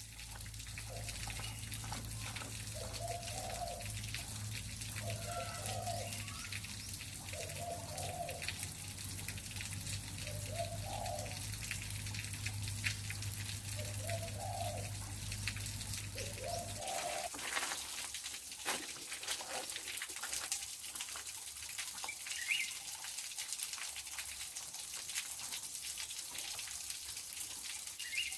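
A forest bird gives a series of short, low calls, about one every two seconds, through the first half, then stops. Under it runs a steady hiss with fine crackling, like trickling water.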